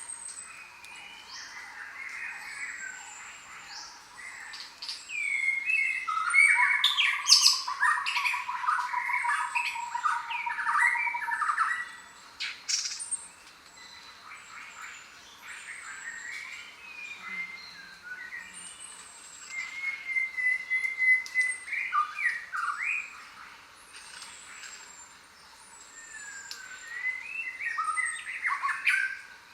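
Several birds calling and singing together in a jungle chorus. High thin falling notes repeat throughout, and louder bursts of squawks and chirps come about six seconds in, again around twenty seconds, and near the end.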